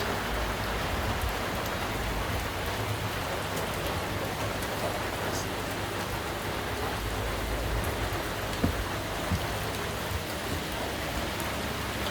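Steady rain falling, an even hiss of drops, with a couple of faint knocks a little past the middle.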